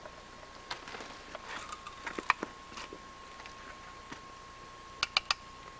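Camp cups and utensils being handled: scattered light knocks and clicks, the loudest a little over two seconds in, then three quick sharp clicks near the end.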